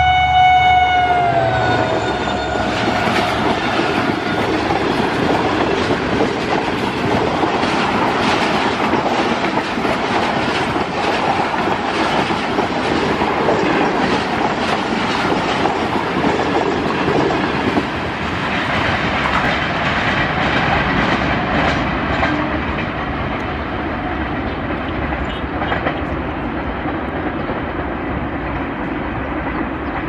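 EMD HGMU-30R diesel locomotive's horn sounding as it passes, its pitch dropping about a second and a half in and stopping about four seconds in. Then the steady rumble and clatter of a long rake of passenger coaches running past at speed.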